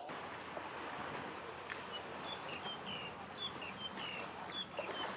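Small bird chirping over and over, short falling chirps starting about two seconds in, over a steady rush of background noise.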